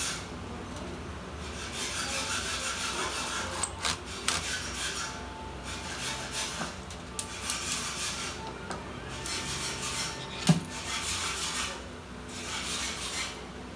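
Scraping and rubbing of plastic and metal parts of a Dell Latitude E7470 laptop being worked by hand during a keyboard replacement. It comes in repeated stretches of a second or two, with one sharp click about ten and a half seconds in.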